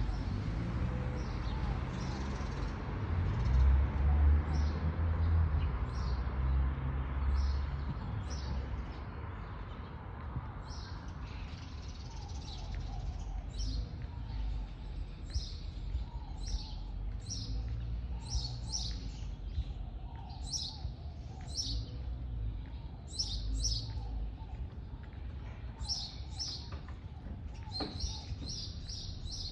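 Small birds chirping, short high chirps repeated many times, coming thicker in the second half. Under them a low rumble swells in the first few seconds, loudest about four seconds in, and dies away by about ten seconds in.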